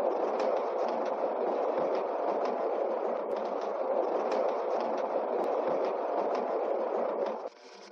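Miniature railway train running, a steady rumbling clatter with scattered clicks, cut off abruptly near the end.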